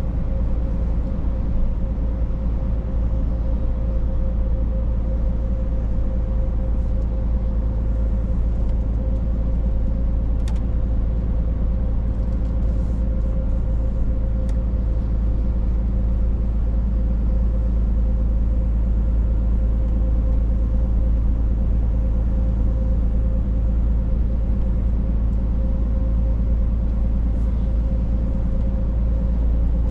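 Scania truck on the move, its engine and tyres making a steady low drone with a constant hum.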